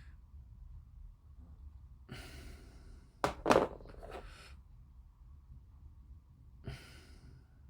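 Handling noises at a model-making bench: two sharp, loud clacks about three and a half seconds in, like a tool or plastic part knocked on the work surface, with a softer knock just after. Breathy exhalations come before them and again near the end.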